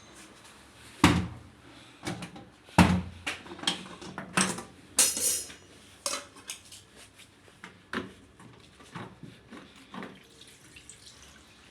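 A string of irregular sharp knocks and clanks of hard, metallic-sounding objects being handled, the loudest about a second in and about three seconds in, with a brief hiss about five seconds in.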